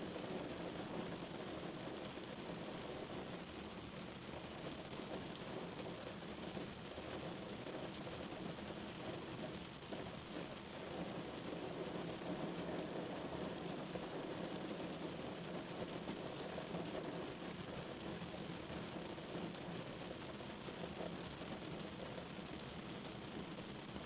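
Steady rain drumming on a car, a dense patter of drops without letup.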